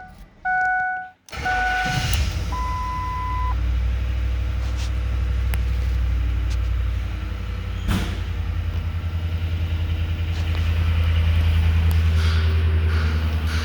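2004 Ford Explorer's 4.6-litre V8 being started: electronic chime tones sound, the engine catches about a second in, and it settles into a steady idle. A few more chime tones follow just after it catches, and there is a single click partway through.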